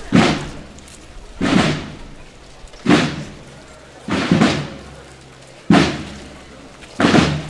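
Slow, steady processional drum beat: single heavy strikes about every second and a half, six in all, each with a short ringing decay.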